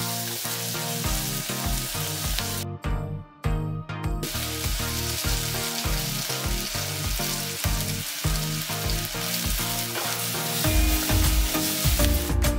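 Onions, tomato, green chillies and curry leaves sizzling in hot coconut oil in a clay pot as they are stirred with a wooden spoon. The sizzling drops out briefly about three seconds in. Background music with a steady beat plays underneath.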